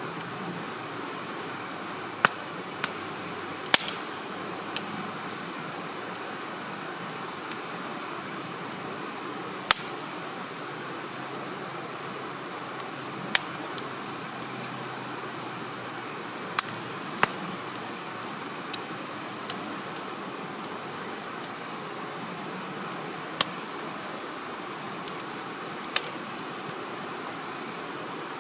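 Wood fire burning in a firewood grill, crackling with a dozen or so sharp, irregular pops over a steady rushing background.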